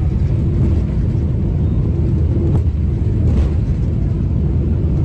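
Loud, steady low rumble of an aircraft botching its landing on a very short runway, with a faint steady tone running under the noise.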